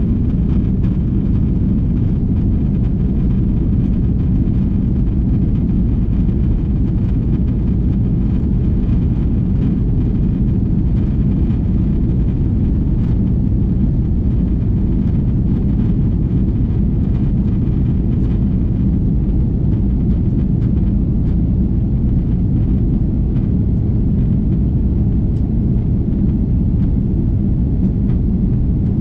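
Steady low rumble of an Airbus A330-300's cabin noise, the jet engines and airflow heard from a window seat inside the cabin.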